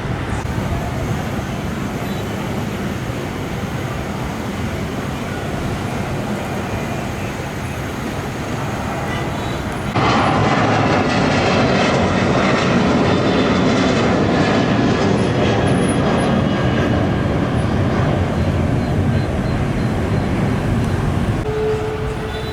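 Airliner engine noise, a steady rushing sound that jumps abruptly louder about halfway through and stays louder.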